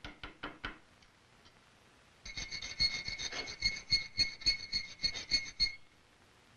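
Quick light taps, about five a second, that stop within the first second. After a pause come rapid strokes of a hand file on iron, about three a second, over a steady ringing from the metal being filed.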